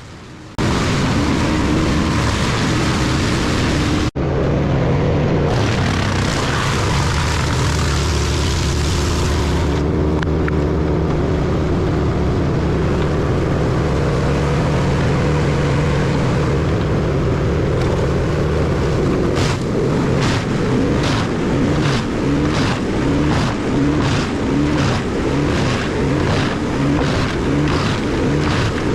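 Bandit wood chipper running hard, a loud steady machine din from its engine and chipper drum. About two-thirds of the way through, a regular knocking at roughly two strokes a second sets in over the din.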